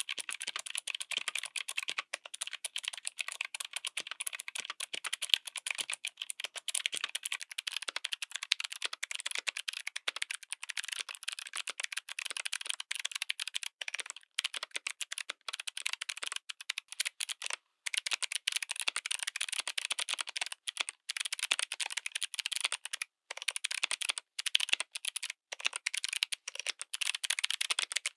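Fast, continuous typing on a mechanical keyboard fitted with clicky switches. It is a dense stream of sharp, high-pitched clicks with little low end, broken by a few brief pauses in the second half.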